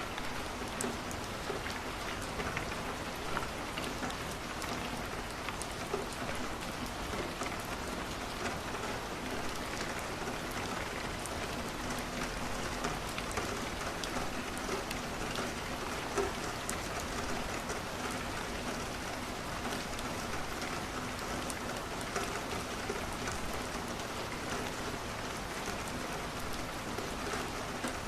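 Steady rain on a window, an even hiss, mixed with a crackling wood fire whose small pops and clicks come scattered throughout.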